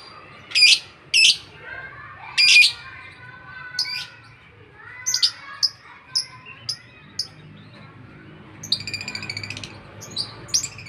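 A lovebird of the lutino/albino ('labino') colour form chattering nonstop, what keepers call gacor: three loud, harsh screeching calls in the first three seconds, then a run of short, sharp chirps, a buzzing rattle about nine seconds in, and a few more chirps near the end.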